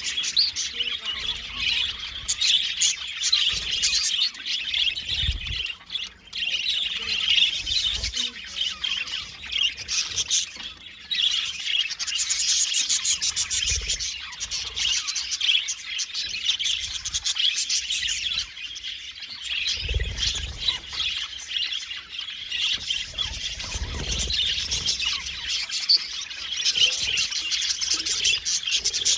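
Several budgerigars chirping and chattering together without a break, a dense flock warble with some squawks. There are a few soft low thumps along the way.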